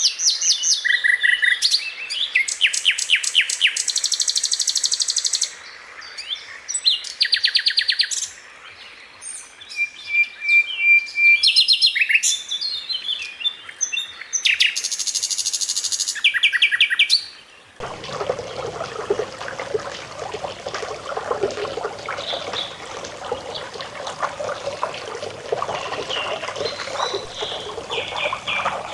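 Sikatan londo flycatcher song: rapid rolling trills and sharp, high, buzzy rattles in repeated phrases with short pauses. About two-thirds of the way in it cuts to a steady sound of flowing water with a few faint bird calls.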